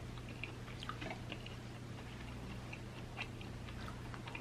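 Faint chewing of a fried chicken wing, a run of soft irregular mouth clicks and smacks, over a low steady hum.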